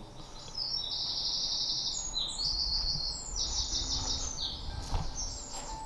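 A small songbird singing a string of high, rapid trills, each phrase about half a second to a second long and pitched a little differently from the last. A low rumble runs underneath through the middle, and a single sharp knock comes about five seconds in.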